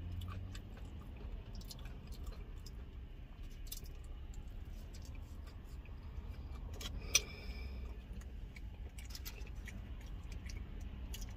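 Quiet chewing and mouth sounds of someone eating chicken wings, with scattered faint clicks and one sharper click about seven seconds in, over a low steady hum.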